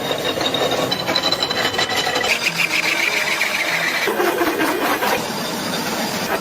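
Matchbox-packing machine running at speed: a dense, rapid clatter of clicks, with a high whine for about a second and a half midway through and a lower tone falling away shortly after.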